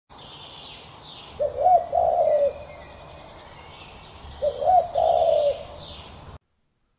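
Birds calling: a low, two-part call comes twice, about three seconds apart, over fainter high chirps. The sound cuts off abruptly a little past six seconds in.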